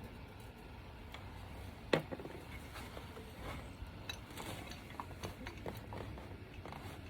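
Scattered light metallic clicks and taps of a bolt and hand tools on the engine while the thermostat housing bolts are started. One sharper click comes about two seconds in, and a quicker run of small clicks follows in the second half.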